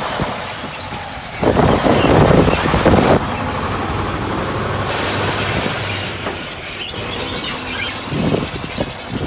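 Mack Vision truck running, with a loud burst of noise lasting under two seconds, about a second and a half in.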